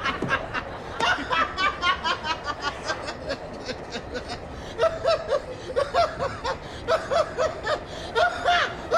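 Laughter: runs of short, quick laughs with little pause between them, a lower-pitched voice joining about five seconds in.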